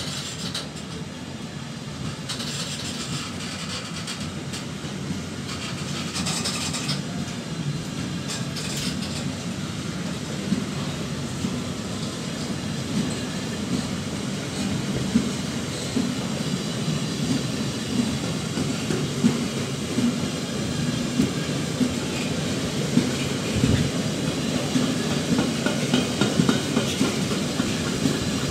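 Loaded double-deck car-transporter wagons of a freight train rolling past: a steady rumble of wheels on rail with sharp knocks as the wheels cross rail joints, the knocks coming more often and the whole getting slightly louder in the second half.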